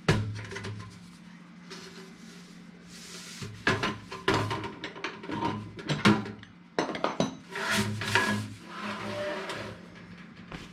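Inline duct booster fan being knocked and scraped against the ends of a 6-inch sheet-metal duct pipe while it is tried for fit, in irregular clusters of clanks and rubbing, over a faint steady hum.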